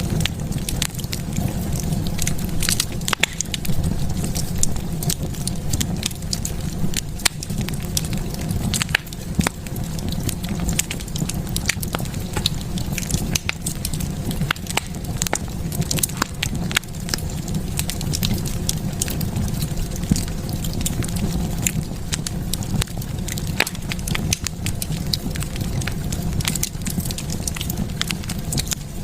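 Wood fire burning in a fireplace: a steady low rumble of the flames with frequent sharp crackles and pops, several a second.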